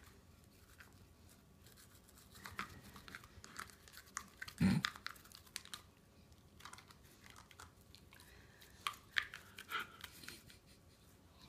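Labradoodle puppy chewing and gnawing, teeth clicking and crunching in irregular bursts with pauses, and one heavy thump a little before the middle.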